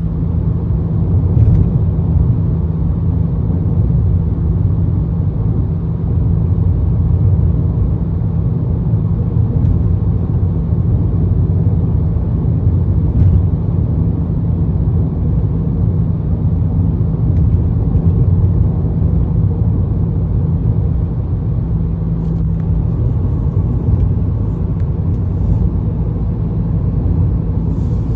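Ford Maverick with a MagnaFlow aftermarket exhaust, heard while driving at a steady speed: a steady low rumble under wind and road noise, with a slight exhaust drone that is barely noticeable above them. The hum fades out about 23 seconds in.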